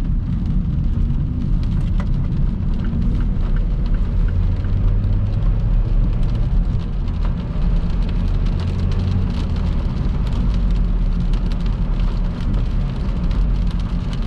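Heavy rain striking a moving car, many separate drop hits over a steady low rumble of the car and road.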